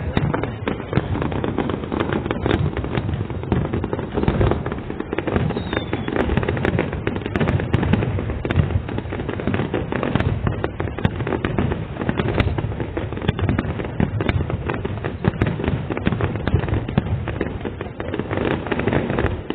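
Fireworks display: a dense, unbroken barrage of bangs and crackling shells bursting in quick succession.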